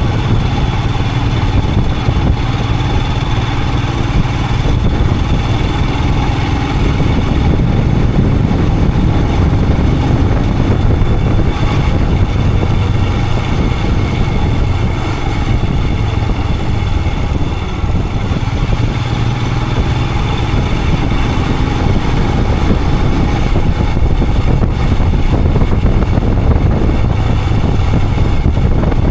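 Royal Enfield Himalayan 411's single-cylinder engine running steadily at cruising speed, mixed with wind and road noise.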